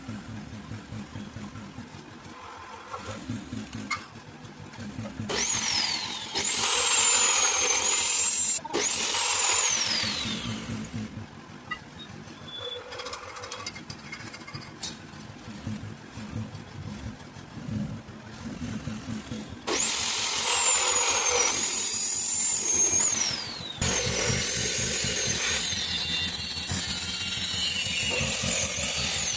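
Handheld power tool running in spells: a high whine that sags in pitch each time it is loaded, then recovers, over a low motor hum.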